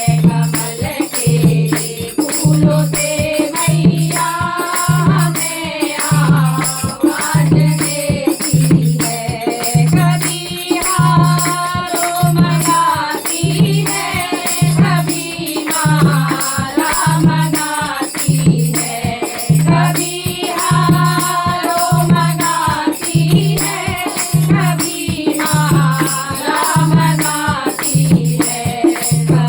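Hindi devotional bhajan: sung melody over a steady low drum beat, with high rattling percussion keeping time.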